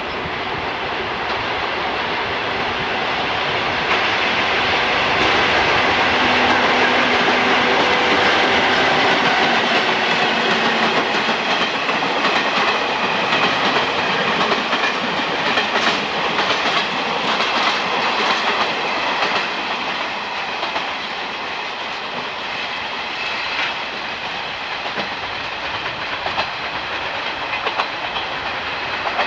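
Electric train passing through the station, its wheels clacking over the rail joints with steady high tones above the rattle; it grows louder over the first several seconds and then slowly eases.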